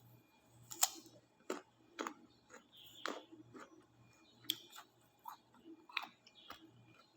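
Someone chewing raw guava close to the microphone: irregular crisp crunches and mouth clicks, several a few seconds apart and others in quicker runs.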